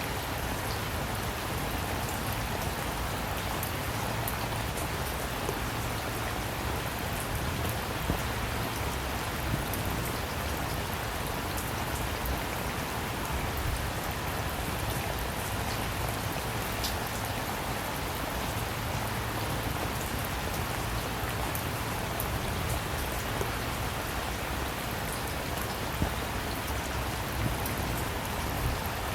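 Steady rainfall: an even hiss with individual drops ticking now and then.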